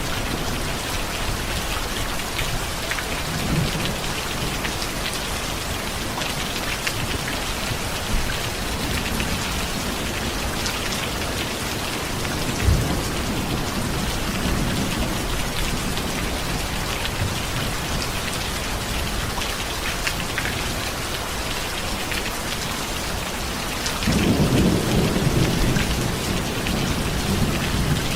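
Steady rain falling, with low rumbles of thunder now and then: a short sharp crack about halfway through, and a longer rolling rumble, the loudest sound, starting a few seconds before the end.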